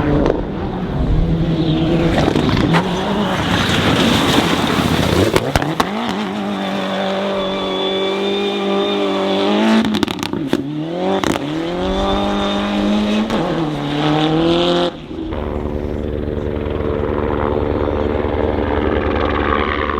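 Rally car engine at full throttle, climbing in pitch and dropping back at each gear change several times over. About fifteen seconds in it gives way abruptly to a steady low, evenly throbbing mechanical drone.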